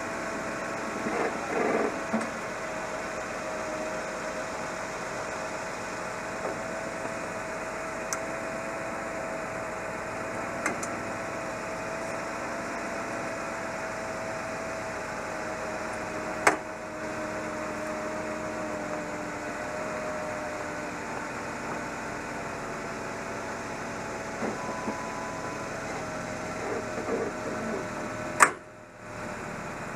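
A vehicle engine idling as a steady hum, with a few short clicks and knocks, the sharpest near the end.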